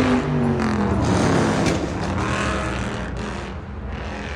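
A car driving past with its engine note loud at first, then dropping in pitch and fading as it moves away.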